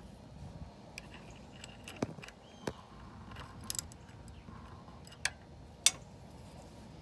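Scattered sharp metallic clicks and clinks, about six in all, of tools and parts being handled while setting up for an oil change.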